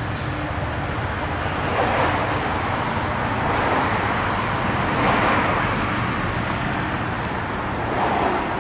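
Steady rush of passing vehicle noise, swelling and easing about every three seconds.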